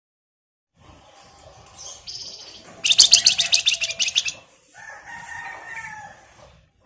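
Javan fulvetta (flamboyan, wergan Jawa) singing. A high note is followed by a loud, rapid, buzzy trill of about ten pulses a second lasting about a second and a half. Softer, lower whistled notes come after it.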